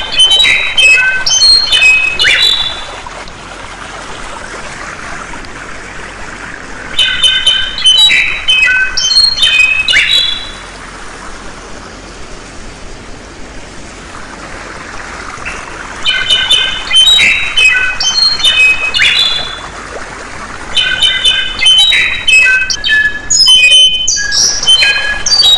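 A songbird singing loud phrases of quick, repeated high notes in four bursts of a few seconds each, over the steady rush of flowing water.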